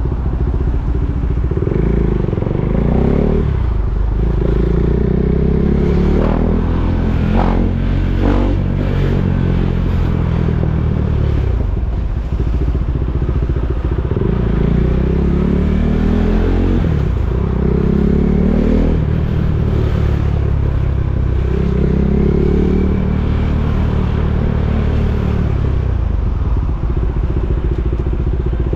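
KTM Duke 390 single-cylinder engine running under the rider, its pitch rising and falling again every few seconds as it is accelerated and eased off in stop-and-go traffic.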